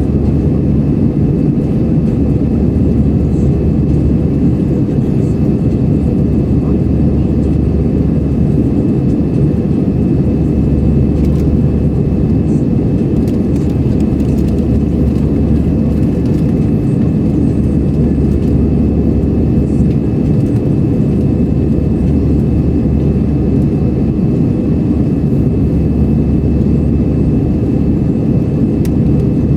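Airbus A320 cabin noise in flight: a steady, loud rumble of jet engines and airflow, with a faint constant whine above it.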